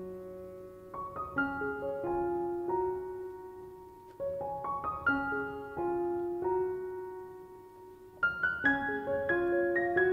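Solo piano music: a slow, gentle melody of single struck notes and soft chords, each note ringing and fading.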